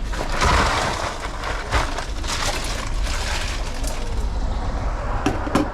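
Rustling and crinkling of paper wrap and a bag as a food order is packed, in two spells, over a steady low hum. A few sharp clicks near the end.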